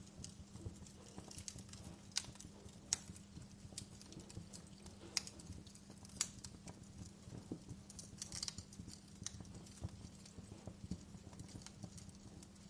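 Wood fire burning in a fireplace, crackling with irregular sharp pops, a few louder snaps among many faint ones, over a low steady hum.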